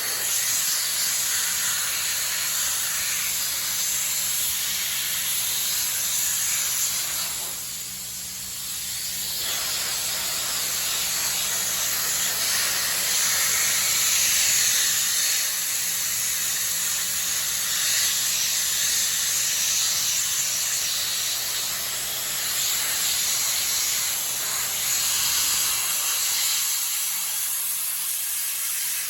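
Blasting gun spraying media onto a BMW R1200 engine casing: a steady, loud hiss of air and media, easing off briefly about eight seconds in, then resuming.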